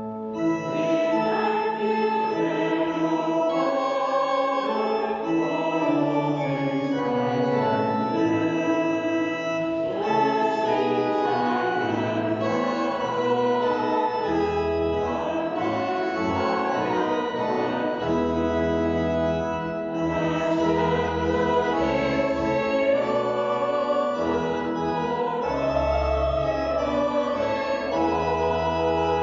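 A choir singing a hymn with organ accompaniment, in held notes over low bass notes.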